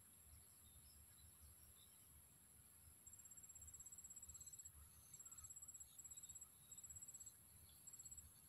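An insect trilling faintly in quick high-pitched pulses, in short runs that start about three seconds in and repeat every second or so, over a steady high hiss and light wind rumble.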